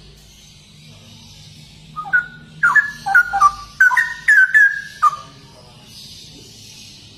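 Straw-headed bulbul (cucak rowo) singing: a phrase of about a dozen loud, quick whistled notes, many of them falling in pitch, starting about two seconds in and lasting about three seconds, over a steady high hiss.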